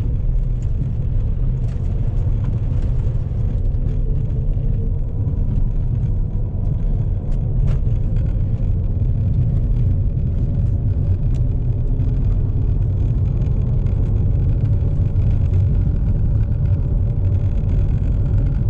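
2014 Chevrolet Impala driving, a steady low rumble with a howl from the rear that sounds like a motor or lawnmower engine running in the back of the car. The owner took it for the recently replaced rear wheel bearing; it turned out not to be the bearing but a missing bolt.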